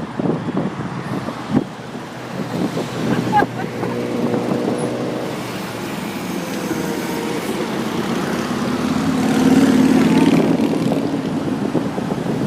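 A car engine running close by, with a steady hum, swelling louder for a moment near the end as it comes nearer.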